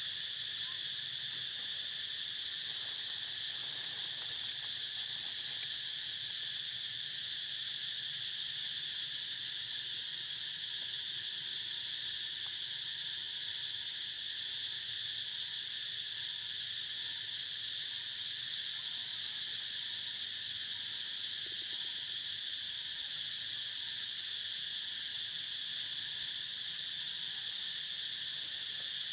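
Steady chorus of insects, a continuous high-pitched drone that holds unchanged throughout.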